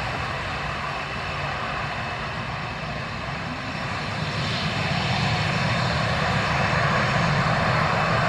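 Jet engines of a Boeing 737-800 (CFM56-7B turbofans) running at low taxi power: a steady rush that grows louder about halfway through as the aircraft draws nearer.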